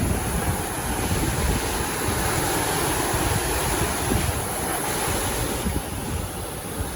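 Sea surf washing onto the beach, with wind buffeting the phone's microphone.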